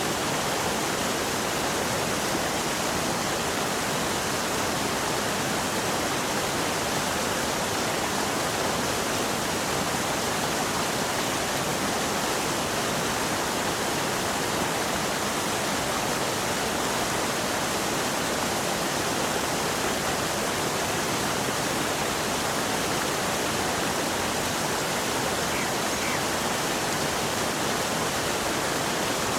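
Fast-flowing water rushing in a steady, even roar with no breaks.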